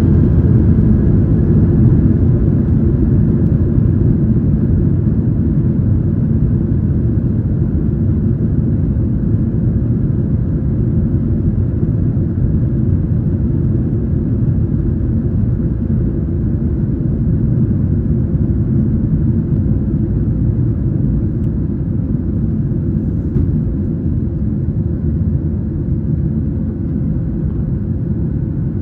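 Boeing 737 jet engines at take-off thrust: a loud, steady low rumble that slowly fades.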